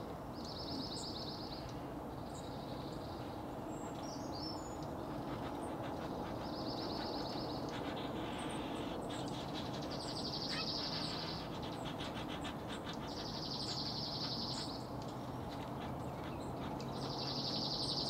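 Wild bird calls: a high, buzzy trill about a second long, repeated six times at intervals of two to four seconds, with faint short high chips in between.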